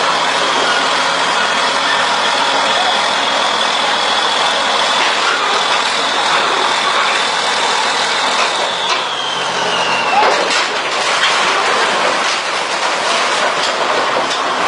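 Heavy truck driving, a loud steady run with a high whine that drops in pitch about nine seconds in, followed by a few sharp knocks.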